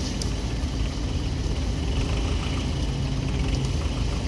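Belarus tractor's diesel engine running steadily at idle.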